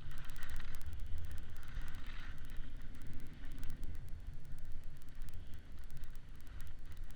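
Wind buffeting the camera microphone, a steady low rumble, with a fluttering hiss over it while the kite rider moves along.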